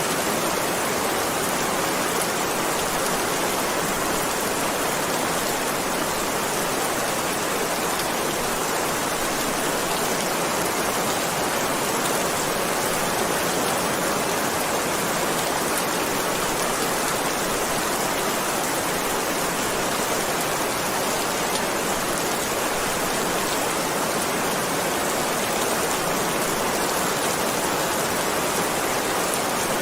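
Heavy rain falling steadily, an even hiss of rain without letup.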